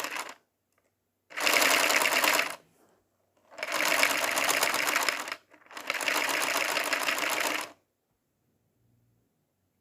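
Lego vacuum engine running in three bursts of fast plastic clattering, each one to two seconds long, stopping briefly between them.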